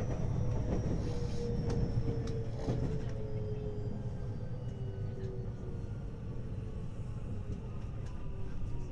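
Interior running sound of a 521-series electric multiple unit slowing for a station stop: the traction motor and inverter whine falls slowly in pitch over a steady rumble of wheels on rail. A few faint knocks come in the first three seconds.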